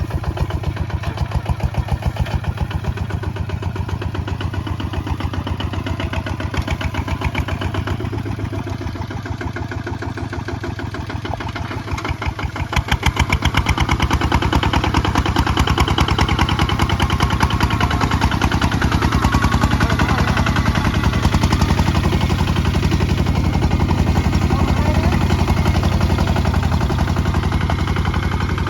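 Kubota ZT155 single-cylinder diesel engine running under plowing load, with an even firing beat. About halfway through it gets louder and stays louder.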